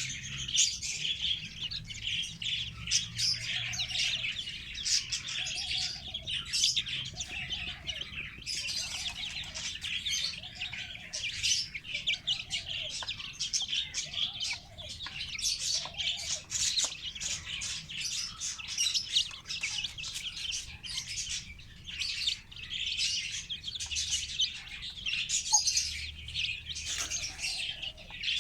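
Many chicks peeping continuously, high and overlapping, with a hen's lower call repeated about every second and a half from about four to sixteen seconds in.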